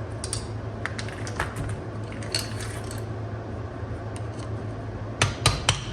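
Small metal parts of a rusty brake caliper clinking as its cotter pins and shim are handled, then a quick run of sharp hammer taps near the end, about four a second. A steady low hum lies under it all.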